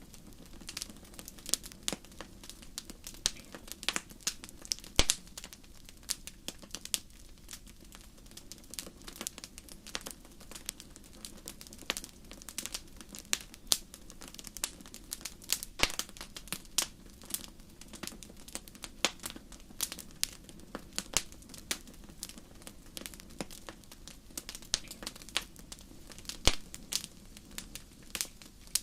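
Wood fire crackling in a fireplace: a steady low hiss of flames with many irregular sharp pops and snaps, several a second.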